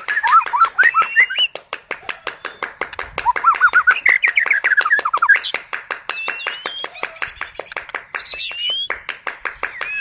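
White-rumped shama (murai batu) singing a fast run of whistled, gliding notes over a quick train of sharp clicks, about five a second. This is the aggressive 'kretekan' style of song used to provoke other shamas.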